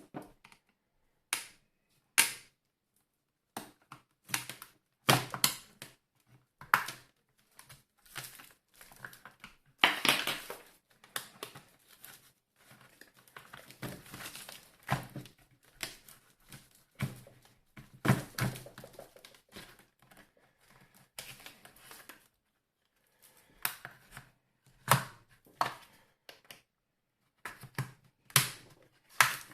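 Irregular clicks, knocks and scraping of a tool prying at the plastic top cover of a Tefal steam iron to get it off, with short silent pauses between bouts.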